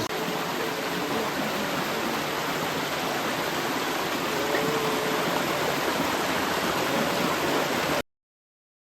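Flowing water of a stream or small waterfall, rushing steadily, then cut off suddenly near the end.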